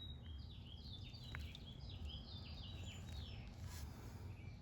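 A songbird singing a quick run of short, falling chirps that ends about three seconds in, over a steady low background rumble.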